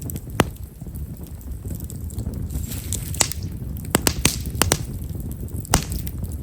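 Campfire of Japanese stewartia (himeshara) firewood burning with a low steady rumble and irregular sharp crackles and pops, about eight in a few seconds, with short hisses between them. The crackling is fine and small-grained, typical of this wood.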